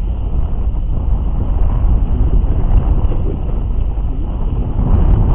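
Steady low rumble and noise of a boat at sea, with no distinct knocks or tones.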